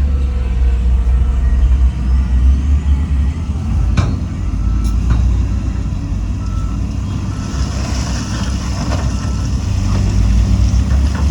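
Heavy diesel earthmoving machinery running with a deep, steady rumble while a reversing alarm beeps faintly. There is a sharp knock about four seconds in, and a hiss from about seven and a half seconds in.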